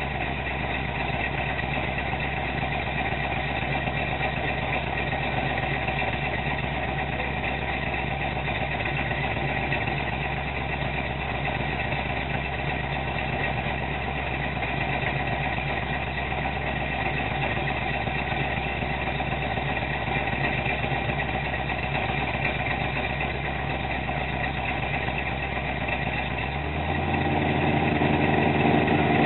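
Oldsmobile 350 V8 with a Comp Cams XE268 flat-tappet camshaft running steadily through Hooker headers and Flowmaster mufflers during cam break-in. A few seconds before the end the engine speed steps up and the exhaust gets louder.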